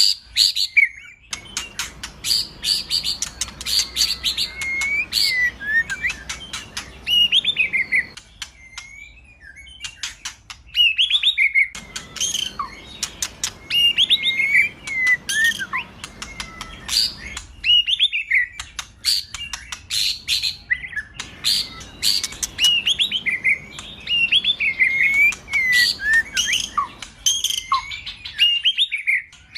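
White-rumped shama singing in full song: rapid chattering ticks mixed with quick slurred whistles, delivered in phrases broken by short pauses.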